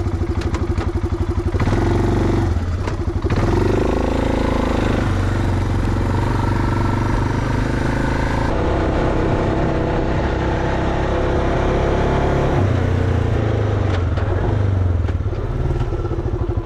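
ATV engine running under way, its note stepping up and down several times as the revs change.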